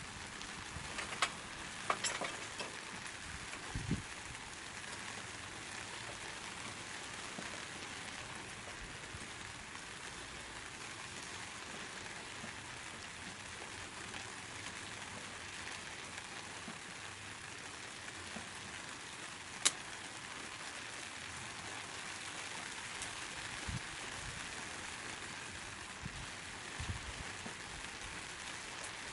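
Wood fire burning in a secondary-combustion wood stove: a steady hiss with a few sharp crackling pops, one about a second in, another around two seconds and a louder one around twenty seconds.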